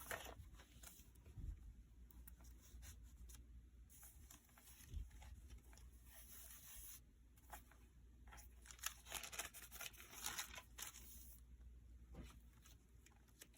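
Faint rustling and crinkling of paper as the pages of a handmade junk journal are turned and handled, with a few soft taps and two longer stretches of rustling in the middle.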